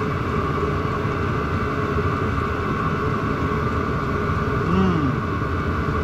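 Chinese diesel heater running with a steady whirring hum and several constant tones. About five seconds in, a short hum rises and falls in pitch.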